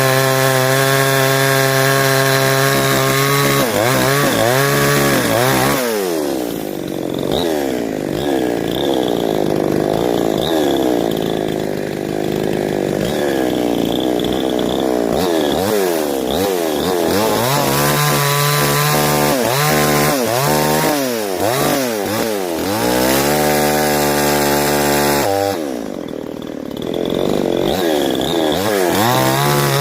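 Two-stroke chainsaw running through wood. The engine holds steady at high revs for stretches near the start and in the second half, and in between its speed keeps rising and falling. Twice it drops briefly to lower revs.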